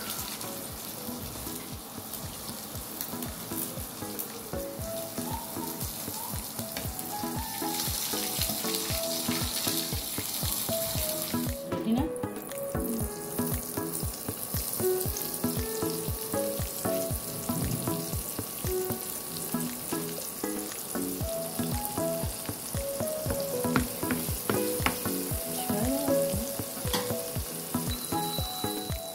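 Sliced onions sizzling as they fry in hot oil in a pan, the sizzle louder for a few seconds from about eight seconds in. A background music melody of short stepped notes plays under it.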